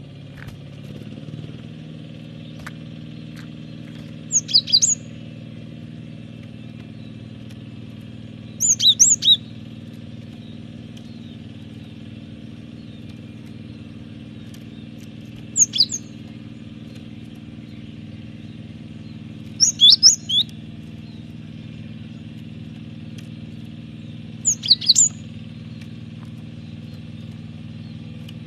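Cinereous tit (gelatik batu) calling in five short bursts of quick high chirps, spaced a few seconds apart, over a steady low hum.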